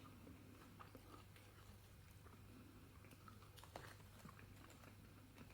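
Faint chewing of a mouthful of fish finger, with a few small soft clicks over a low steady hum.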